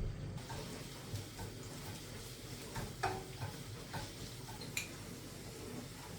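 Kitchen utensils handled over a steady low hum: a scatter of light clicks and knocks, the loudest about three seconds in.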